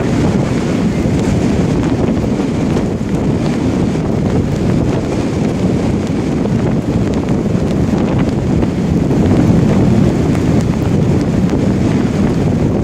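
Strong blizzard wind buffeting the microphone: a loud, steady, low rumble that swells and eases.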